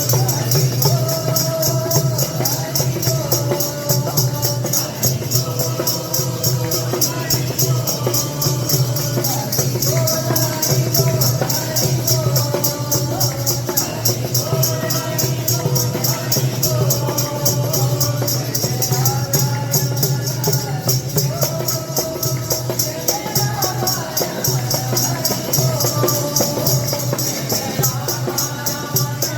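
Devotional bhajan: voices singing a melody over a rapid, steady jingling rhythm from hand percussion such as a tambourine or small cymbals.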